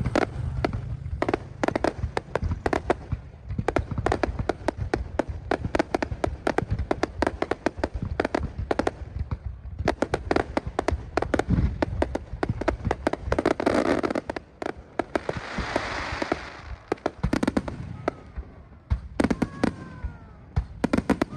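Fireworks going off in rapid succession, a dense run of sharp bangs and crackling with a few whistles near the end.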